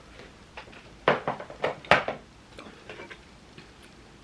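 A utensil clinking and knocking against a dish as food is served up: several sharp clicks, the loudest about one and two seconds in, then a few fainter ones.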